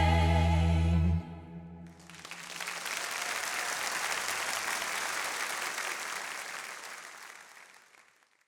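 The final held chord of a live musical number cuts off about a second in, then an audience breaks into applause that swells and fades away near the end.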